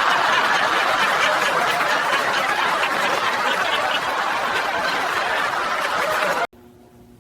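Many people laughing together in a dense, steady wave that cuts off abruptly about six and a half seconds in.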